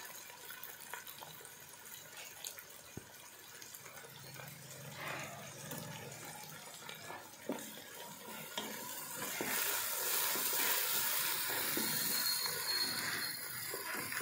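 Chickpeas, onion, tomato and green chilies sizzling in butter in a pan, stirred with a wooden spatula, with light scrapes and knocks. The sizzle grows louder about nine seconds in.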